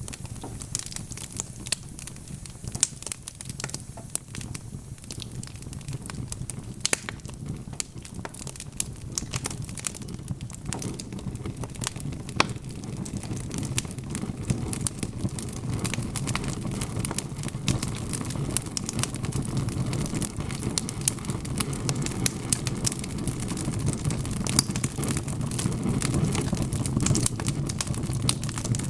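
Wood logs burning in a fireplace, crackling with many sharp pops and snaps over a low rushing of the fire that grows louder about halfway through.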